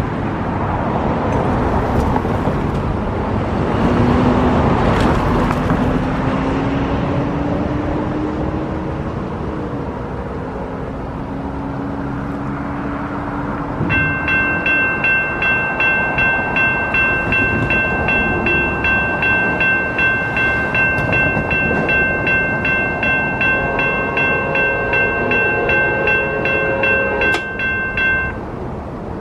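Amtrak passenger train rumbling past, with a slowly rising engine tone in the first half. From about halfway a railroad grade-crossing bell rings steadily and evenly until near the end.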